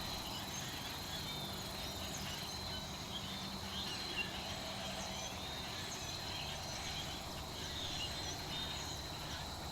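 Crickets trilling steadily in a continuous high-pitched chorus, with a few faint, scattered chirps over a soft low background hum.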